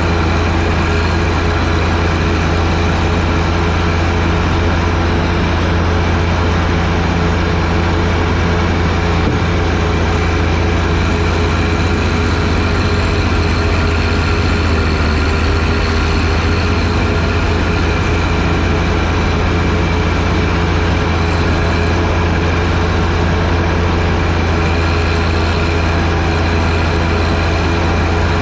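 John Deere 1025R sub-compact tractor's three-cylinder diesel engine running steadily, driving a front-mounted 47-inch snowblower, with a slight dip in pitch about halfway through.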